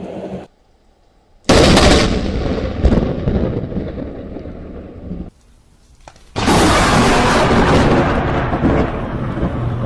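Two close lightning strikes, each a sudden loud thunderclap. The first comes about a second and a half in and rumbles away over a few seconds before breaking off abruptly. The second comes about six seconds in and stays loud.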